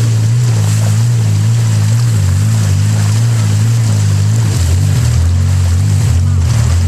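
Longtail boat engine running hard at speed, a loud low drone that wavers and drops in pitch about four and a half seconds in, with water and wind rushing past.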